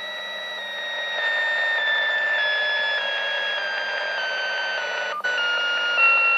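An unidentified tone received on the 27 MHz CB band and played through a radio speaker over static hiss. It is a whistling tone with overtones that steps slowly down in pitch, with a brief dropout about five seconds in.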